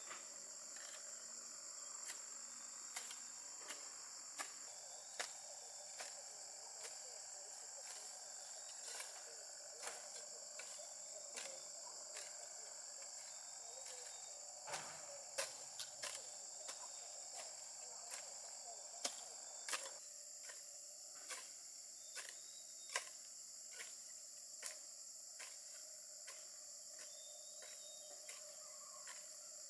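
Steady high-pitched insect chorus, with sharp clicks or knocks at irregular intervals, roughly one every second or two.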